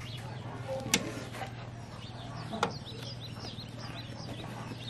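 Small birds chirping in short, high, repeated notes, strongest in the middle, over a steady low hum. Two sharp knocks about a second and a half apart are the loudest sounds.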